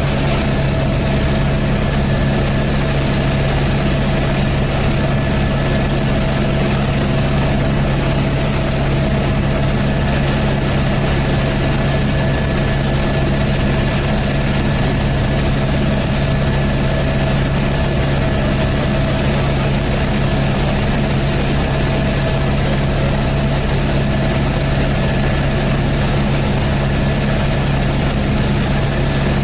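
Helicopter heard from inside the cabin in flight: a loud, steady engine and rotor drone with several constant hum tones that do not change.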